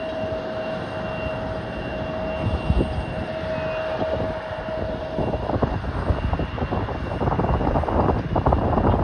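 Embraer regional jet's turbofan engines running with a steady whine, then growing louder and rougher from about halfway through as thrust comes up for takeoff.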